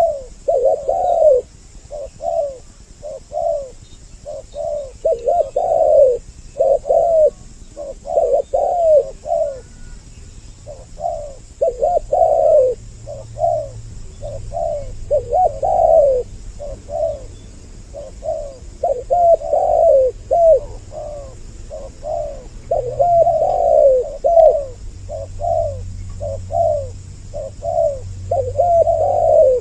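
Spotted doves, a male and a female, cooing in short repeated phrases of a few notes each, one phrase after another without pause.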